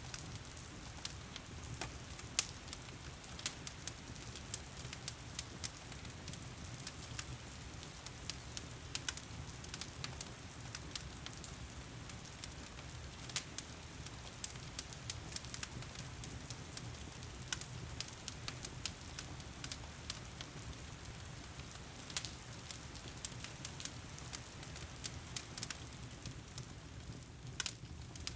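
Wood fire crackling in a stone fireplace, with irregular sharp pops over a steady low rumble, mixed with steady heavy rain.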